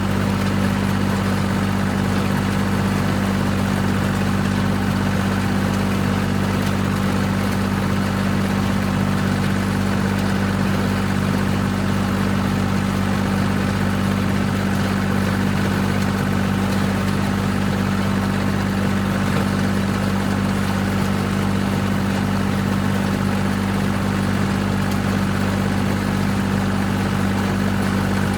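Tractor engine running at a steady speed while mowing a cover crop for hay, a constant low drone that does not change.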